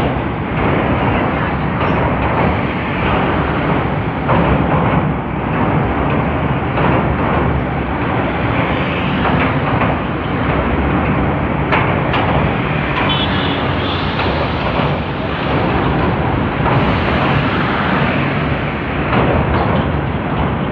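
Passenger train running on the rails: a loud, steady rumble and rattle, with frequent irregular knocks and clatters from the carriage.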